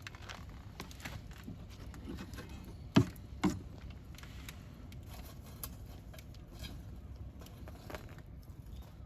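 Wood fire burning with scattered crackles over a low rumble of flame, and two sharp pops about three seconds in, half a second apart.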